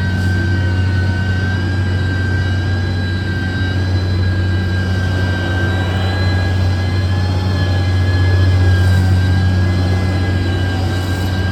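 Heavy construction machine's diesel engine running steadily with a deep hum, under a high whine that holds steady and wavers slightly in pitch.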